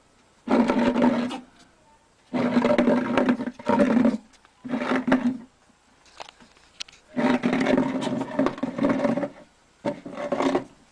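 An animal's loud drawn-out calls, six in a row, each lasting a second or two with short pauses between.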